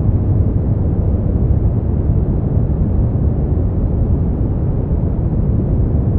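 Steady artificial white noise played as a sleep aid: an even, unchanging rush, heavy in the bass and dull, with no treble.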